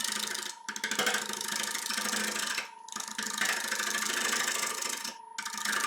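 A 3/8 bowl gouge cutting into a wet mulberry bowl blank spinning on a wood lathe at 750 RPM, a loud rasping cut over a steady tone, breaking off briefly three times between passes.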